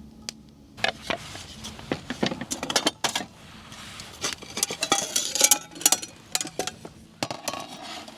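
Kitchenware being handled at a table: irregular clinks, taps and knocks of dishes and utensils with some rustling, starting about a second in.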